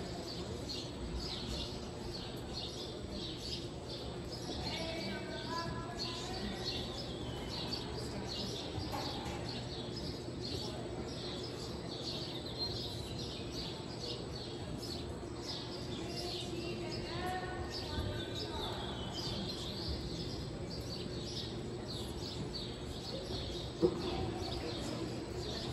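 Small birds chirping repeatedly in short high calls, over a steady low hum, with a single brief knock near the end.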